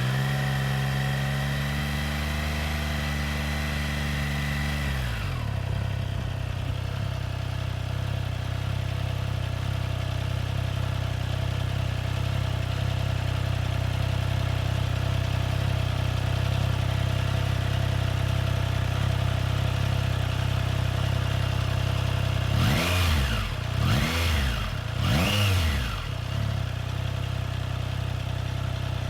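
Honda CMX1100 Rebel's parallel-twin engine, held at raised revs, then dropping about five seconds in to a steady low-revving run. Near the end it gives three quick throttle blips, each rising and falling within about a second.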